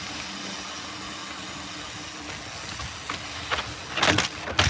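Mountain bike rolling along a dirt trail: a steady hiss of tyres and wind, then a few sharp knocks and rattles near the end as the bike jolts over rough ground.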